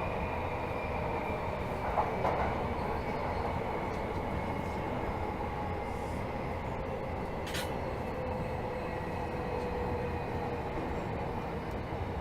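Tokyo Metro 13000 series subway train running, heard from inside the car: a steady rumble of wheels and drive with a faint whine slowly falling in pitch. There is a short click about two seconds in and a brief high hiss about seven and a half seconds in.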